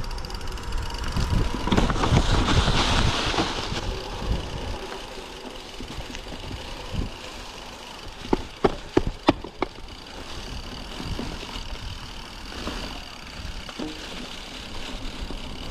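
Mountain bike ride on snow with wind rumbling on the microphone, a louder hissing stretch from about one to four seconds in, and a quick cluster of five or six sharp clicks about eight to nine and a half seconds in.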